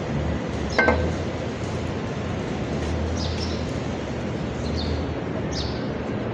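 A single sharp metal clink with a short ring about a second in, over a steady background noise, with faint high chirps coming and going.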